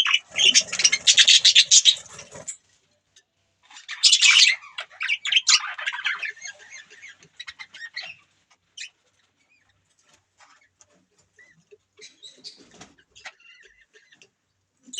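Budgerigars chattering and squawking in loud, harsh bursts for the first two and a half seconds and again around four seconds in, then only scattered soft chirps and clicks.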